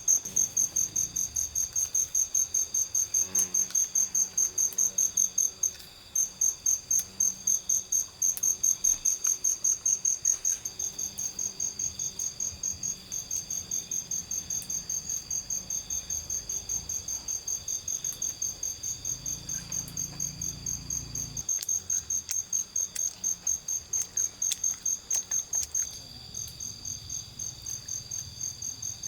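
An insect, cricket-like, chirping in a steady high-pitched pulse about four times a second, with a brief break about six seconds in and getting softer near the end.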